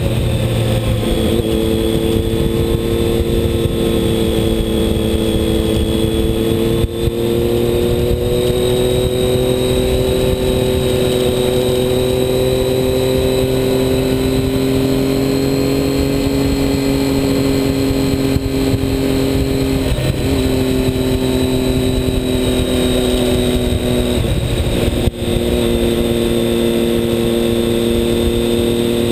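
A racing motorcycle's engine running hard on track, heard onboard over heavy wind rush. Its pitch climbs and falls slowly, with a short drop about two-thirds of the way through and another brief dip near the end, typical of gear changes.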